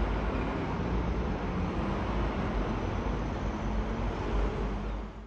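Steady outdoor background rumble, heaviest in the low end with a faint hum through it, cutting off abruptly at the end.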